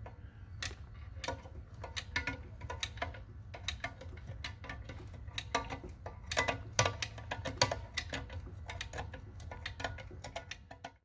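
Irregular metal clicks and clinks of hand tools at work on an engine's flex plate bolts, over a low steady hum.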